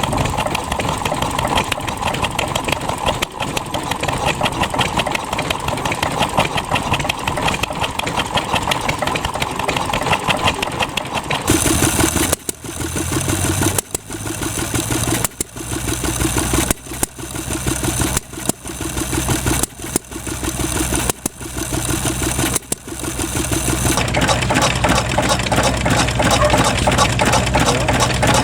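Vintage stationary engines running, three in turn. The middle one's sound drops away briefly about every second and a half.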